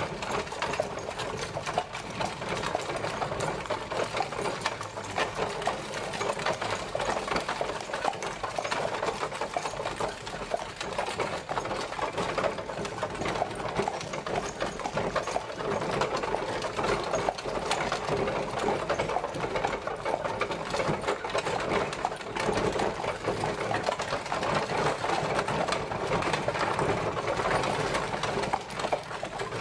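Horse-drawn carriage traveling, its wheels and body rattling in a dense, continuous clatter.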